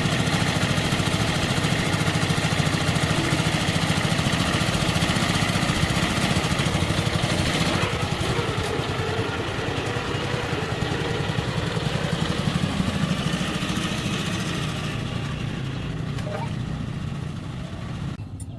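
Old tractor engine running steadily with an even firing pulse; it grows quieter over the last few seconds and cuts off near the end.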